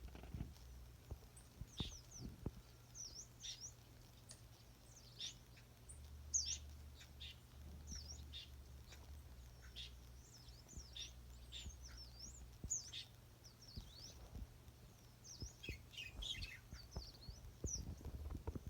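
Wild birds singing and chirping, many short high notes and quick downward-sweeping calls in an irregular scatter, over a faint steady low hum.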